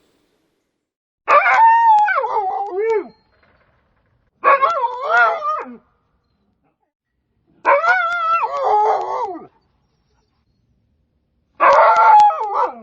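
An animal calling four times: each call is a wavering, pitched cry of about a second and a half, with silent gaps of a couple of seconds between calls.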